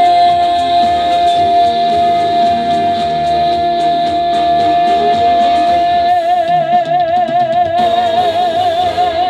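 A female singer holds one long high final note over live band accompaniment. The note is steady at first, then takes on a wide, even vibrato from about six seconds in.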